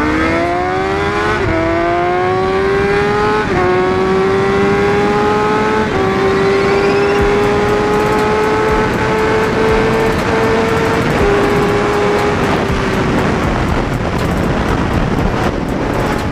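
Motorcycle engine accelerating hard through the gears, its pitch climbing and then dropping at three quick upshifts, followed by a long slow pull in the higher gear. The engine note fades near the end, leaving a steady rush of wind.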